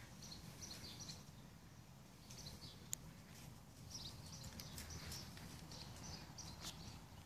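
Faint birds chirping in short scattered bursts over a low steady background hum, with one sharp click about three seconds in.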